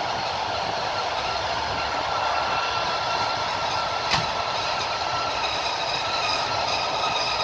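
Train running on the rails, heard from aboard: a steady running noise with a thin, steady high whine, and one sharp click a little past halfway.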